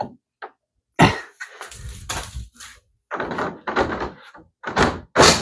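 Plastic pool ladder parts knocking and scraping as the roll guard is forced along its track and hangs up: irregular thunks and rubbing, with a sharp knock about a second in and more near the end.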